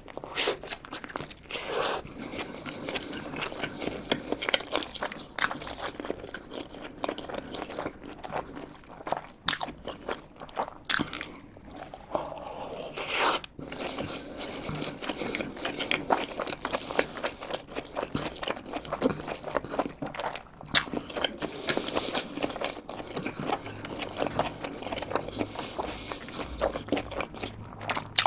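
Close-miked eating sounds: a person bites into a cheeseburger and chews it, with steady wet smacking and squelching and now and then a sharper click or crunch.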